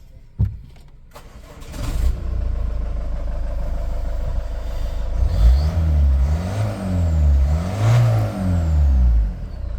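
Ford Kuga's newly fitted engine starting up and idling, then revved up and down several times. A short knock just after the start.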